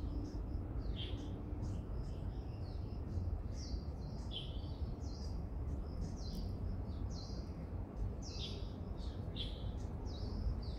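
Small birds chirping: short, high, downward-sliding chirps, about one a second at first and coming faster after a few seconds, over a steady low rumble.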